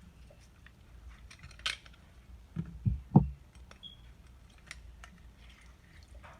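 Kitchen handling sounds at a counter: a sharp clink, then three dull knocks in quick succession, the last the loudest, among small clicks of utensils and dishes.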